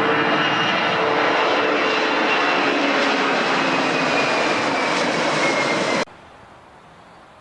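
Airplane engines passing close: a loud, steady rush with a whine that falls slowly in pitch. It cuts off abruptly about six seconds in, leaving faint background noise.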